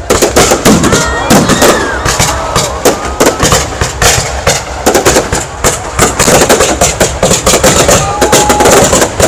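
A fireworks display going off: a dense, rapid run of bangs and crackles. The voices of a large crowd run beneath the bangs.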